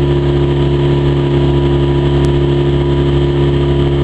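Hidea 15 hp outboard motor running at a steady speed, pushing the boat along.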